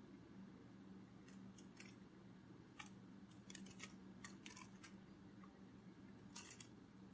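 Near silence with faint, irregular small clicks, some in quick little clusters, over a low steady hum.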